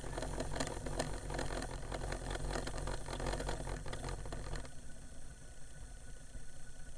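Old 1980s-era Discman portable CD player whirring with rapid fine clicking as its disc motor tries to spin up to speed, too weak to get there. The sound drops to a quieter level about two-thirds of the way through.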